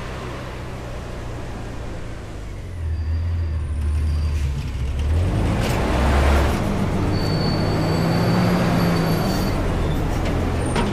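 Front-load garbage truck's diesel engine running, then revving up about three seconds in as the hydraulics take the load, with a hiss around the middle.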